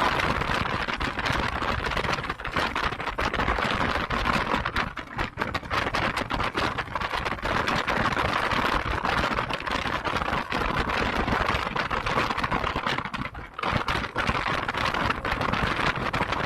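Motorcycle ride heard from the bike: wind buffeting the microphone over the running engine, with brief lulls about five seconds in and again near the end.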